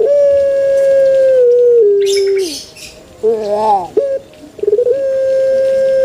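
Male Barbary dove (puter) cooing: a long drawn-out coo held on one pitch that steps down and falls away at the end. A short wavering call follows about three seconds in, then a second long coo starts near the end.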